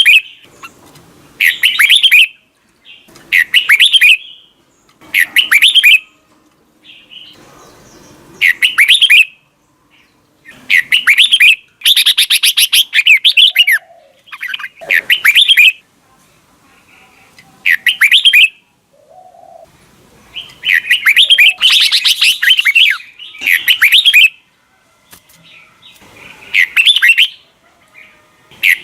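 Red-whiskered bulbul singing loudly and close up: short, warbled phrases repeated about every two seconds, with a few longer, run-on bursts around the middle and later on.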